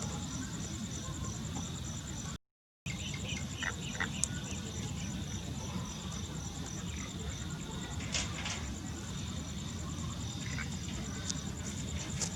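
Insects trilling in a steady, rapidly pulsing high-pitched chorus over a low background rumble, with a few faint brief sounds; the sound cuts out for a moment about two and a half seconds in.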